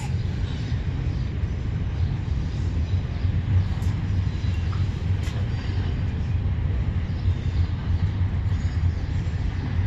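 A long CSX freight train's cars rolling past on the rails, a steady low rumble.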